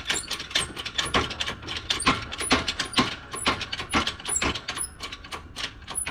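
A press forcing a water pump shaft bearing into its housing: an irregular run of clicks and creaks, a few a second, with brief high squeaks.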